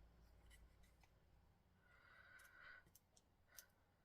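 Near silence, with a few faint ticks and a soft rustle of card stock being handled and lined up by hand.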